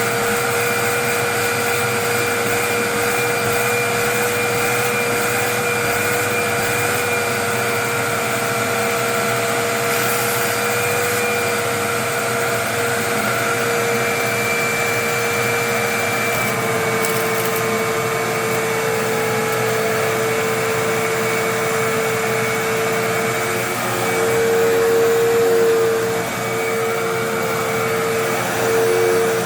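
Hoover WindTunnel Twin Chamber bagless upright vacuum cleaner running, being checked for suction and clogging. Its motor gives a steady whine that shifts slightly in pitch about halfway through and grows louder for a couple of seconds near the end.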